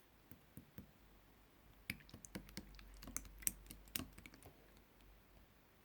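Slime being squeezed and worked by hand: a few faint sticky clicks, then, about two seconds in, a dense run of clicks and small pops lasting a couple of seconds.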